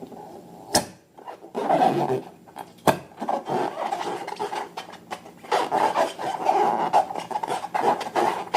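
Hands working slime and rubber balloons, making rubbing, squishing handling noise in irregular bursts, with two sharp clicks about a second and three seconds in.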